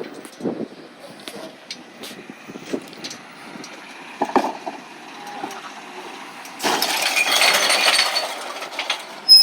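Recyclables being tipped into a recycling truck: scattered knocks and clinks, then a loud clattering crash lasting about two seconds near the end, followed by a short high squeal.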